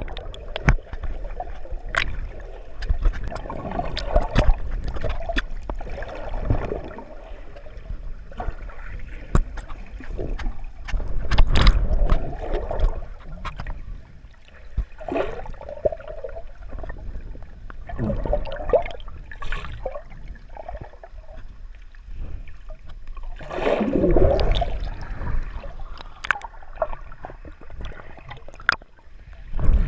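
Water heard underwater through a GoPro's waterproof housing: muffled sloshing and gurgling that swells twice, about ten seconds in and again near the end, with scattered sharp clicks throughout.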